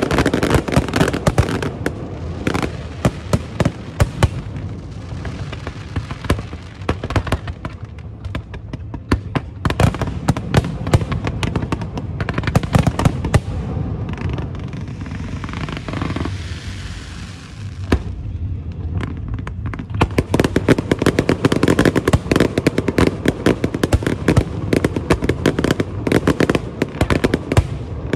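Aerial fireworks display: many bangs in quick succession. The bangs thin out about halfway through, where a hissing stretch comes in, then pick up into a dense rapid barrage near the end.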